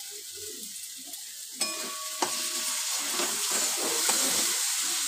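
Spiced onion masala with freshly added mashed garlic sizzling in a kadai while a metal spatula stirs it. About a second and a half in, the sizzle turns suddenly louder as the stirring gets going, with a couple of sharp knocks of the spatula on the pan.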